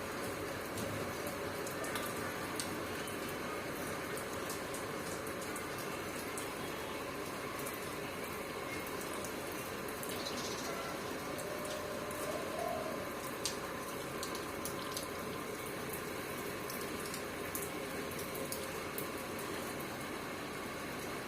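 Steady rain falling and splashing, with scattered sharp drip and splatter clicks.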